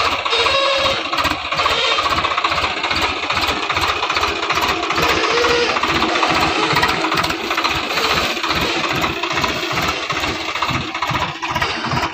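Swaraj 735 XT tractor's three-cylinder diesel engine running steadily, with a rapid, even low pulse from its firing strokes.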